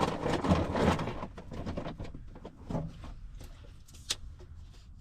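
Rustling, then a few light clicks and knocks of things being handled, with one sharp click about four seconds in.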